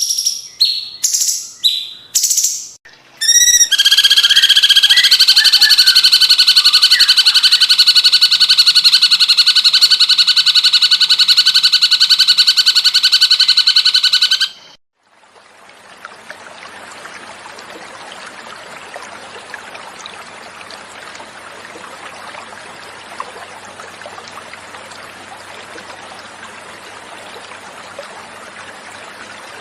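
Recorded song of a cucak cungkok: a few short chirps, then a loud, fast, pulsing trill held for about eleven seconds that cuts off abruptly. After a brief gap, water flowing steadily in a stream takes over.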